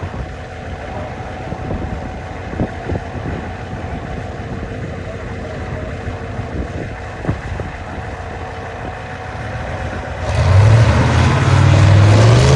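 Modified Ford Ranger pulling truck's engine running at a low idle with a few sharp knocks, then about ten seconds in it revs up suddenly and loudly, its pitch climbing as the truck starts its pull.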